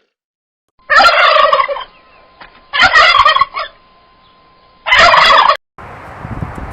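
Turkey gobbling three times: loud, rattling calls about two seconds apart.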